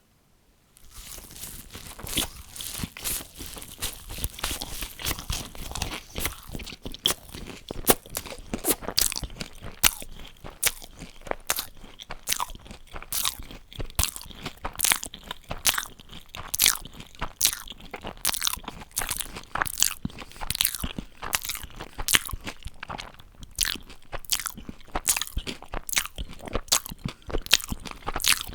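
Close-miked chewing of crunchy food, starting about a second in, with sharp, loud crunches at about two a second over steady mouth sounds.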